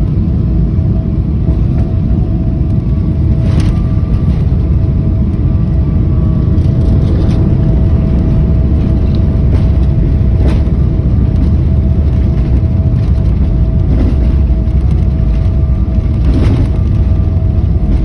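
Cabin noise of a Boeing airliner: a loud, steady rumble with a steady whine running through it, and a few short knocks.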